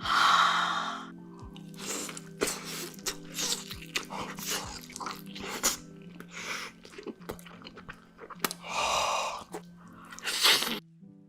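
Close-miked eating sounds: chewing with repeated crunchy bites and a few louder bursts near the start and near the end, over soft background music. The eating stops abruptly a little before the end, leaving only the music.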